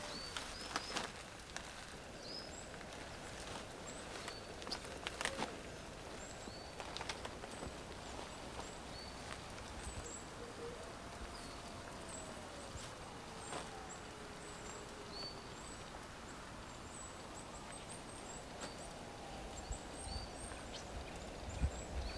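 Outdoor natural ambience with small birds chirping short, high, repeated calls, a slow wavering whistle near the middle, and a few sharp clicks or snaps.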